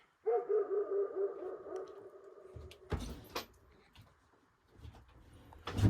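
A dog's long, wavering whine lasting about two seconds, followed by a thud and then a louder thud near the end.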